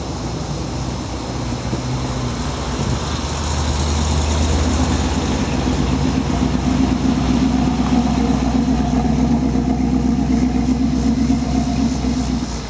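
Car engine running with a steady low rumble, getting louder about three seconds in and falling away near the end.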